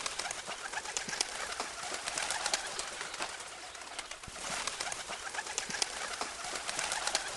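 Pigeons cooing over a steady rustle scattered with many small clicks.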